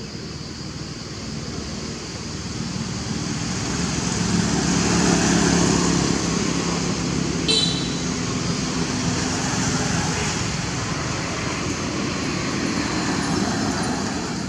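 A motor running steadily, growing louder over the first five seconds and then holding, with one short sharp sound about halfway through.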